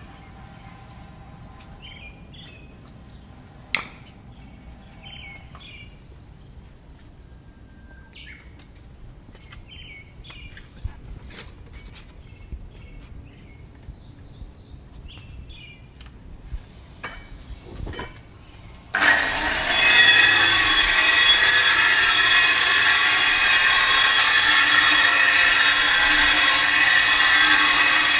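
Birds chirping, with a few sharp knocks of stonework. About 19 seconds in, a power tool starts cutting stone with a loud, steady grinding noise that drowns out everything else.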